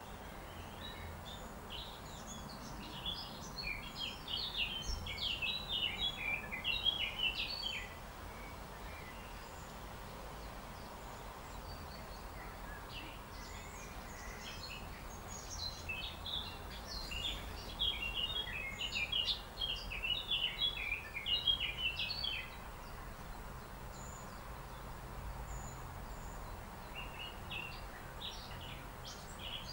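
Birdsong in the background: bouts of rapid, high chirping notes from about two to eight seconds in, again from about thirteen to twenty-two seconds, and once more near the end, over steady low background noise.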